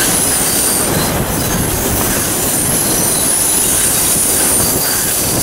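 Train hauled by steam locomotive 621 rolling past at close range: a loud, steady rumble of wheels on rail with thin high-pitched wheel squeal coming and going over it.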